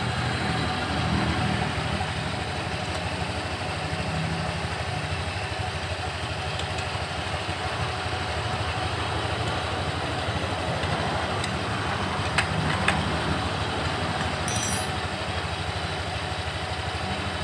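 Honda Scoopy's single-cylinder engine idling steadily, with two short sharp clicks about twelve seconds in.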